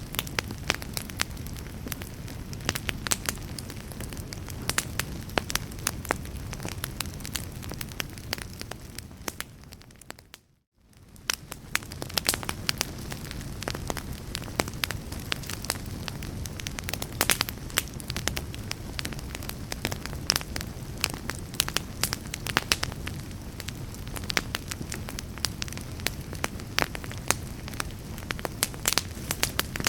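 Wood fire crackling, with frequent sharp pops and snaps over a steady low rumble. About ten seconds in the sound fades briefly to near silence and then comes back.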